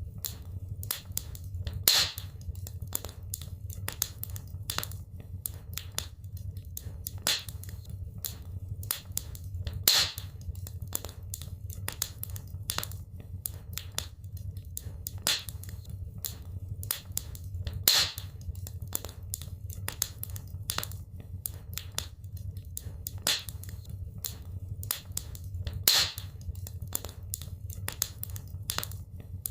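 Wood fire crackling in a fireplace: many small sharp crackles over a steady low rumble, with a louder pop about every eight seconds in a repeating pattern.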